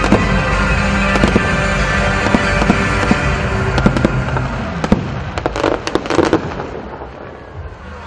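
Aerial fireworks bursting in a dense barrage of bangs and crackling, with music playing. A last cluster of bangs comes about five to six seconds in, then the barrage dies away near the end.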